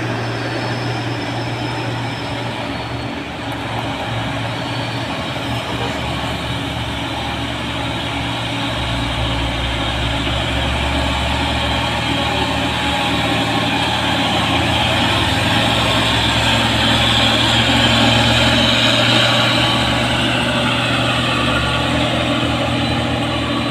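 Heavy truck's diesel engine running, growing gradually louder over most of the stretch and easing slightly near the end.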